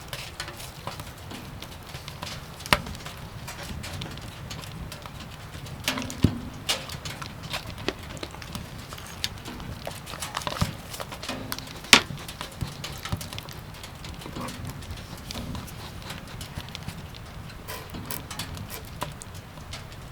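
Firewood burning with irregular crackles and pops, a few of them sharper and louder.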